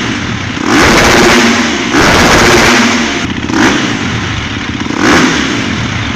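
Trail motorcycle's single-cylinder four-stroke engine revving hard, loud, in about four surges of throttle.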